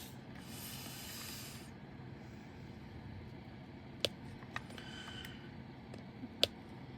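A soft hiss near the start, then a few sharp light clicks spaced out over several seconds: a diamond painting drill pen tapping resin drills onto the canvas.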